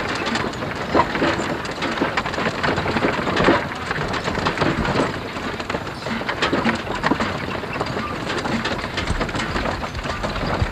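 Horse-drawn wagon rolling along: a steady rattling, crunching clatter with many small irregular knocks.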